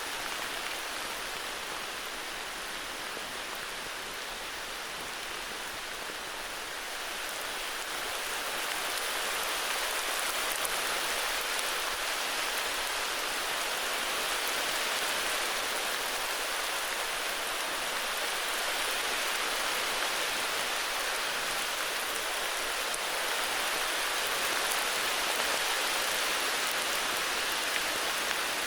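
Heavy rain falling steadily, a dense even hiss that grows a little louder several seconds in.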